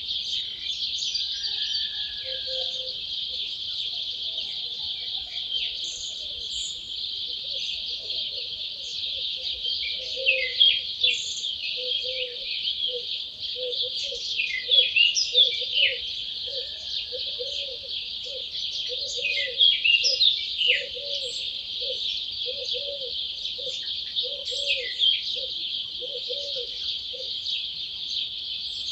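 Dawn chorus of several wild birds: quick, high, gliding song phrases over a steady high hiss, with louder bursts of song about a third, half and two-thirds of the way through. Through the middle a lower-pitched call repeats about once a second.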